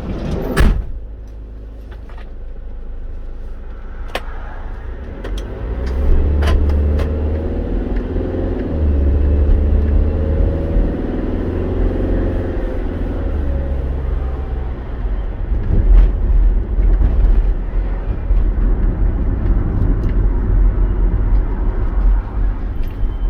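Engine and road noise heard inside a moving vehicle's cabin. There is a sharp knock near the start; about six seconds in, the vehicle pulls away and the engine's pitch rises and falls as it accelerates and changes speed.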